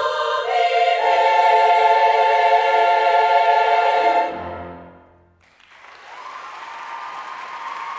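A choir holds its final chord, which swells and then dies away about four and a half seconds in. After a brief hush, an audience starts applauding.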